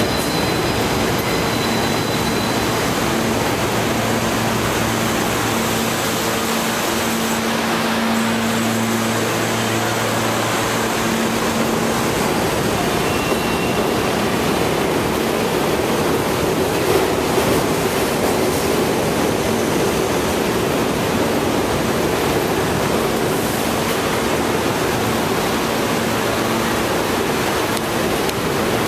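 R68A subway train rolling into a terminal station: a steady rush of wheel-on-rail noise, with a low hum over roughly the first twelve seconds and the rumble growing somewhat heavier around the middle.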